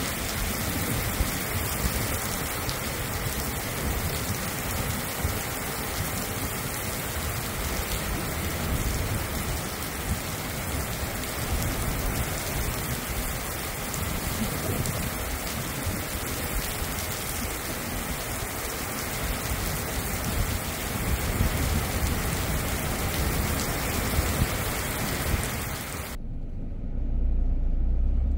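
Heavy tropical downpour: a steady, even hiss of rain pouring down and striking hard ground. About 26 seconds in it cuts off abruptly, and a low rumble takes its place.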